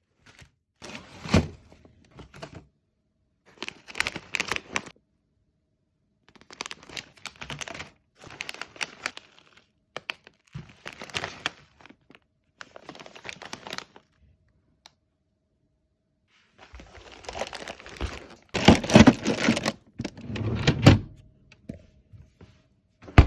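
Grocery packages being handled and set down: plastic packaging crinkling and rustling in irregular bursts, with dull thunks as items are put in place. The busiest, loudest handling comes about three quarters of the way through.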